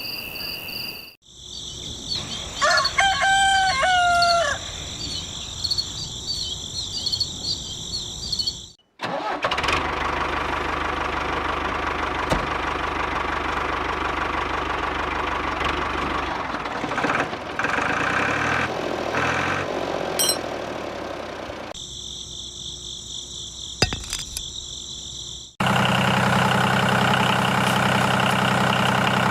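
A rooster crows once over a steady high tone, then an engine runs for a long stretch. After an abrupt cut near the end it idles steadily.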